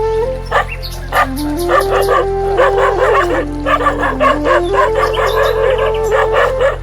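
A dog barking over and over in quick, sharp barks, coming thick and fast from about two seconds in, over background flute music playing a slow stepped melody.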